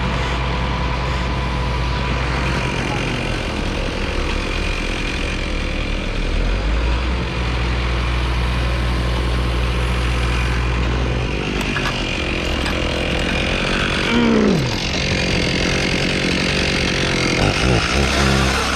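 Heavy engine running steadily at idle, a low hum throughout. About three-quarters of the way through, a higher whine drops sharply in pitch.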